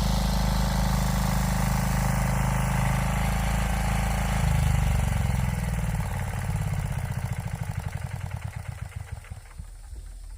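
Small engine running steadily, then throttled down about halfway through. Its firing slows to a slow, uneven chug of separate beats near the end.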